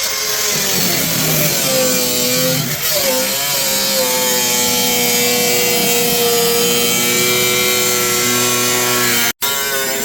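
A power tool running under load, its whine dipping and recovering in pitch over a harsh hiss. It cuts out for an instant near the end.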